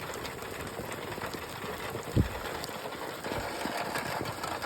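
Heavy rain falling, a steady hiss of many drops ticking. A single low thump about two seconds in.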